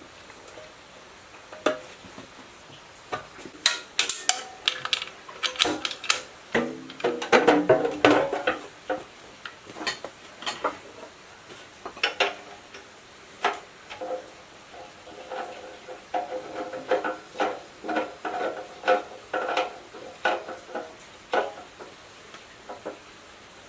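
Metal tools and engine parts knocking and clinking against each other in a run of irregular strikes, some of them ringing briefly. The busiest clatter comes from about 4 to 9 seconds in.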